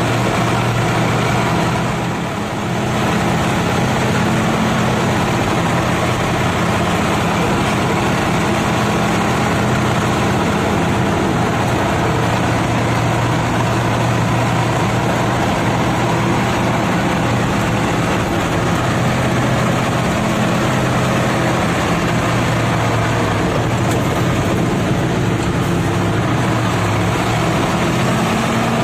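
Nissan TZA 520 dump truck's diesel engine running steadily while under way. There is a brief dip in level about two seconds in, and the engine pitch shifts near the end.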